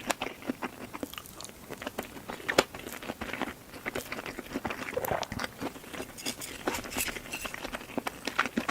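Close-miked eating sounds: a person chewing and biting food, with many small irregular clicks and crunches.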